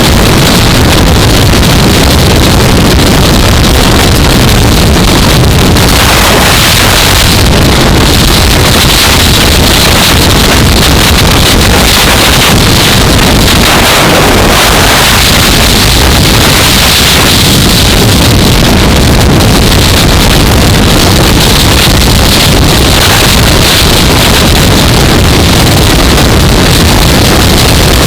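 Loud, steady wind noise buffeting a helmet camera's microphone at riding speed on a 2015 Yamaha R3, with the bike's parallel-twin engine droning underneath.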